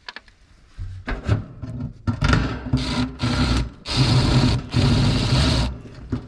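Cordless impact driver running in about five short bursts, driving screws.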